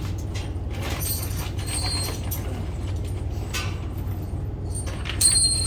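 Tools and metal hardware being handled: scattered clinks and knocks, with brief high metallic rings about a second in and near the end, over a steady low hum.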